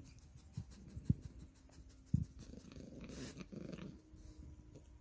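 A cat purring close by, with a few soft knocks.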